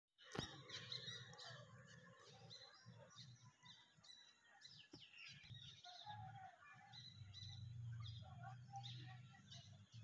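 Birds chirping faintly, many short high calls overlapping, over a steady low rumble. A single sharp click comes right at the start.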